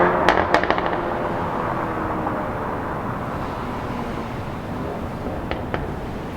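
Mercedes-Benz A250's turbocharged four-cylinder through an aftermarket RES valved exhaust: as a rev is let off, several sharp pops and crackles come in quick succession in the first second. The engine then settles to a steady rumble, with two more pops near the end.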